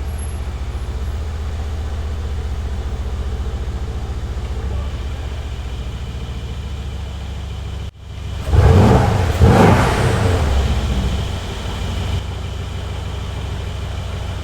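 Mercedes-AMG C63 S's twin-turbo V8 idling with a steady burble, then blipped twice, each rev rising and falling, about eight to ten seconds in, before settling back to idle.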